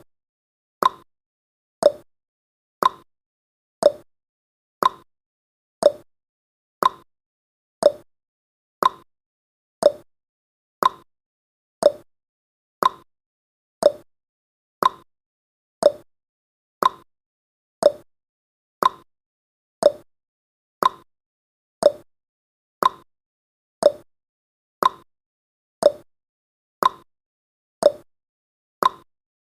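Clock-tick sound effect of a countdown timer, one short tick each second, alternating between a higher and a lower tick like a tick-tock.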